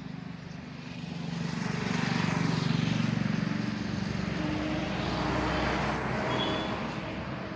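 Road traffic: engine and tyre noise of passing motor vehicles, swelling up about two seconds in and again around five seconds, then fading.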